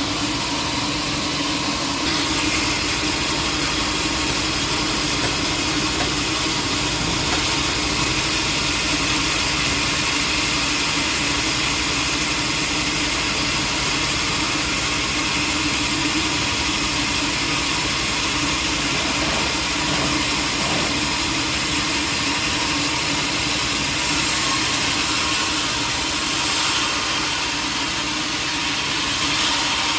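Sawmill machinery running steadily with a constant engine-like drone.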